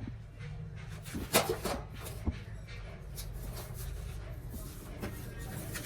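A few sharp knocks and clatters, the loudest about a second and a half in and another about a second later, over a steady low hum.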